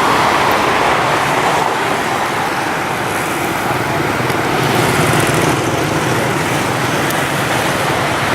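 Steady road traffic noise, a dense even wash of engines and tyres, with a low engine hum coming in about halfway through.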